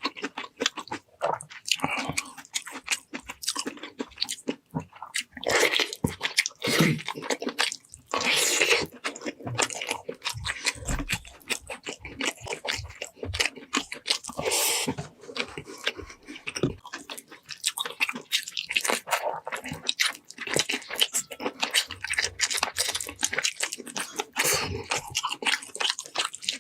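Close-miked chewing and crunching of food, with many irregular crackling bites and wet mouth sounds. There are louder stretches of crunching about six, eight and fourteen seconds in.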